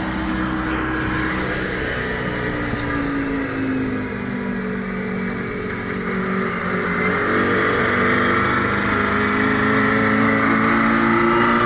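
Detroit Diesel truck engine running and being revved: its pitch sags a little, then climbs and gets louder through the second half.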